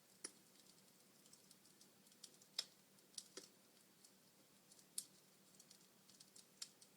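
Wood fire crackling in a fireplace: sparse, irregular sharp pops and snaps from the burning logs. The loudest snaps come a little after two and a half seconds and at five seconds.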